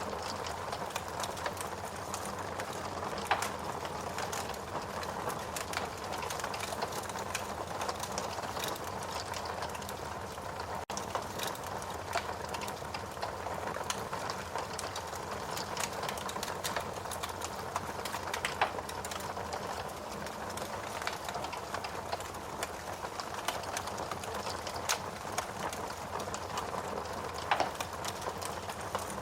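Fireplace fire burning steadily, with a constant hiss and frequent small crackles and the odd louder pop.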